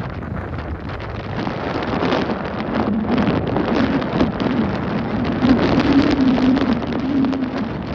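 Strong gusting wind buffeting the microphone, rising and falling in loudness. A low wavering hum comes in about three seconds in and fades near the end.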